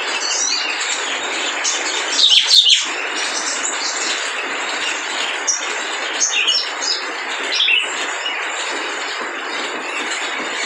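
Crimson sunbird (sogon) singing: quick, scattered high-pitched chirps and twitters over a steady background hiss, with a louder run of chirps about two seconds in.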